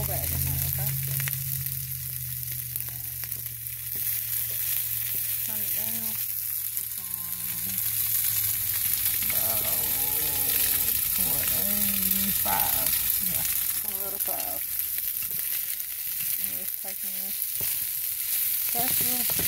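Vegetable fried rice sizzling in hot oil in a nonstick skillet, stirred and pushed around with a spatula.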